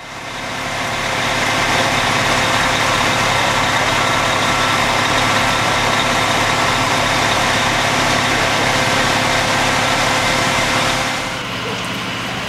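A large engine idling steadily close by, a dense even running noise with steady tones, fading in at the start and dropping to a lower, duller level about eleven seconds in.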